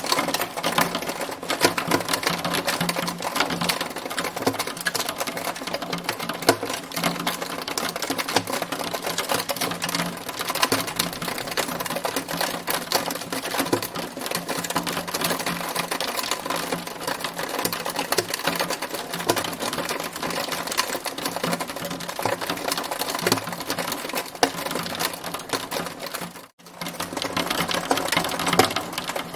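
Hail falling steadily: a dense, continuous clatter of hailstones striking, which cuts out for a moment a few seconds before the end and then resumes.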